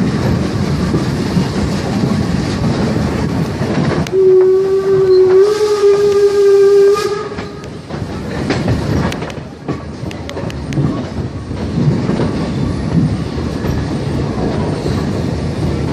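A train running, with a locomotive whistle sounding one held note for about three and a half seconds starting about four seconds in, then a run of clicks as the wheels pass over rail joints.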